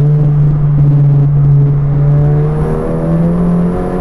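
Turbocharged four-cylinder engine of a Stage 3 VW Mk7 GTI track car pulling hard with a steady note. The pitch rises a little about two and a half seconds in and falls away near the end.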